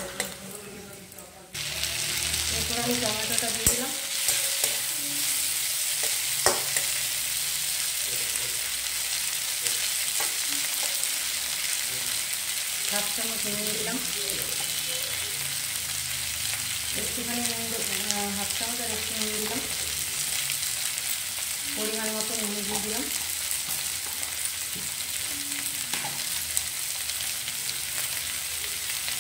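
Onions and chopped tomatoes sizzling in oil in a wok, with a metal spatula scraping and clicking against the pan at the start. About a second and a half in the sizzle jumps louder and then holds steady.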